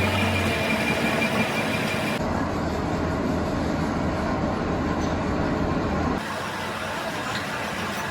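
Workshop machinery running steadily with a low hum and even noise. The sound changes abruptly about two seconds in and again about six seconds in.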